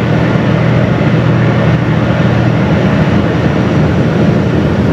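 Steady low drone of a car ferry's engines under a constant rushing noise.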